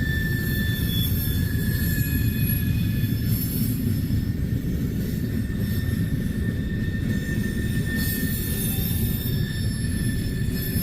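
Freight train cars rolling past: a steady rumble of wheels on rail with thin, high wheel-squeal tones held over it.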